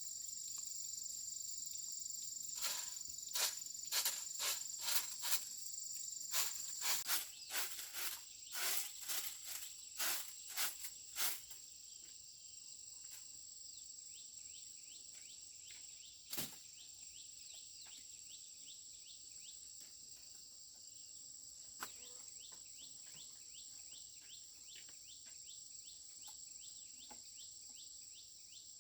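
Insects chirring steadily in a high, even drone. A quick run of about twenty sharp knocks or snaps comes in the first half, with two more single ones later, and short faint chirps follow in the second half.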